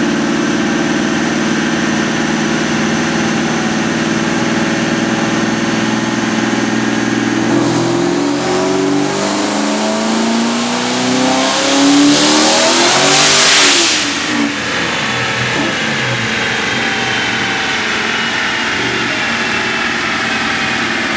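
Twin-turbo 5.4-litre four-valve V8 of a Saleen Mustang idling, then run at full throttle on a chassis dyno. The revs climb fast for about six seconds, getting louder, to about 5,800 rpm at about 22 psi of boost. The throttle then snaps shut and the engine drops back to idle.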